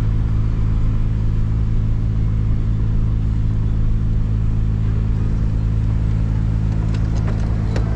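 Vehicle engine running with a steady low drone, with a few light clicks near the end.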